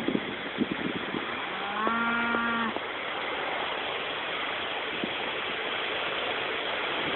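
Strong wind rushing over the microphone. A single held, pitched call about a second long comes near two seconds in.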